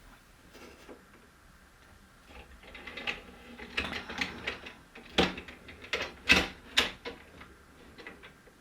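Marbles clicking and clattering through a toy marble run. A quick string of small clicks builds about two and a half seconds in, with the loudest knocks between five and seven seconds in.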